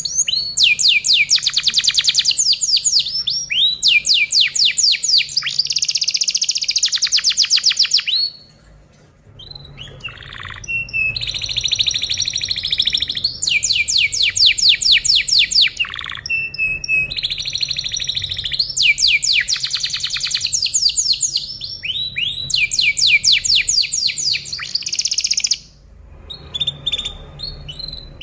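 Canary singing: fast trills of rapidly repeated notes in phrases of one to two seconds, broken by two short pauses, about a third of the way in and near the end.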